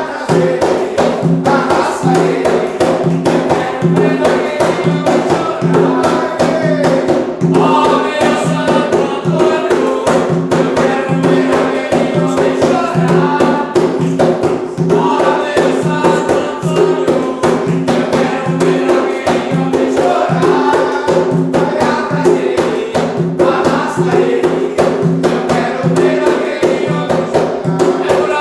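Umbanda ritual music: voices singing a ponto together over fast, steady drumming and percussion.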